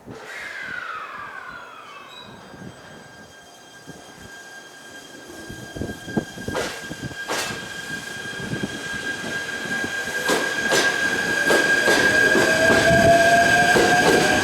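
Electric train approaching and growing louder, with a steady high-pitched wheel squeal. About ten seconds in, a motor whine starts rising in pitch, along with sharp clicks of wheels over rail joints.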